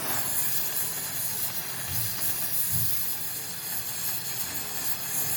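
A spray jet hissing steadily and evenly, with no pauses.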